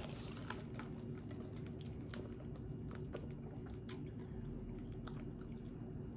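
A person chewing and biting food close to the microphone, with irregular crunchy clicks, over a steady low hum.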